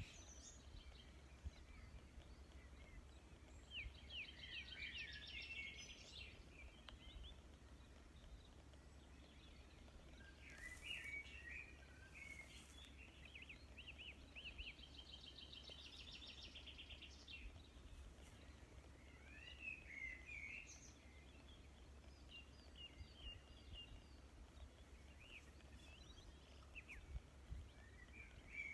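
Faint birdsong: birds chirping and trilling on and off, with rapid trilled phrases a few seconds in and again about halfway, over a low steady hum.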